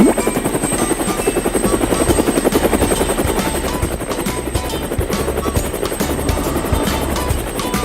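Cartoon helicopter sound effect: a rotor chopping in a fast, even beat over a low hum, with background music.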